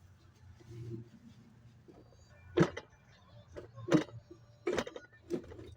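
Sharp knocks and clicks of tools and parts being handled during engine assembly, three louder ones a second or so apart, over a low steady hum.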